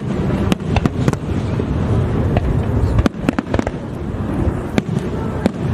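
Aerial fireworks going off in a dense barrage: a continuous low rumble of bursts with many sharp cracks and pops scattered irregularly throughout.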